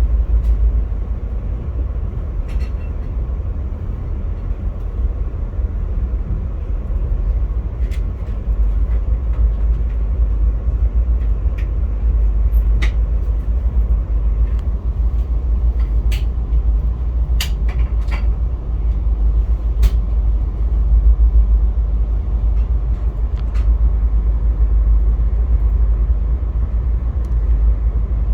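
Via Rail passenger train running on the rails: a steady low rumble with occasional sharp clicks at irregular moments.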